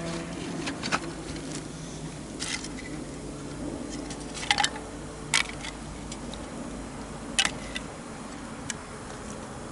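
Wood fire crackling, with a few sharp pops and snaps over the steady rush of a river.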